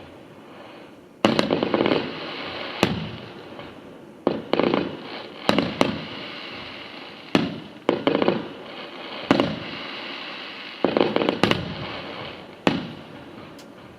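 Fireworks display: aerial shells bursting in sharp bangs, about a dozen, some in quick pairs, each trailing off in an echo.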